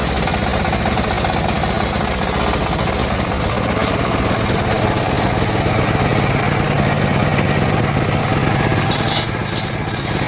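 Engine of a homemade circular sawmill running steadily with a knocking beat, easing off briefly near the end.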